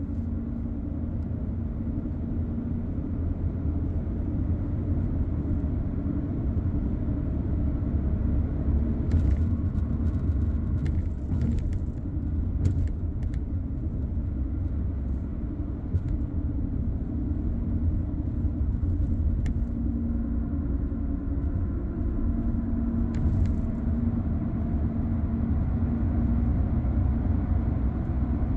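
Car driving along a road: a steady low road and engine rumble, with a few faint clicks or rattles around the middle and again near the end.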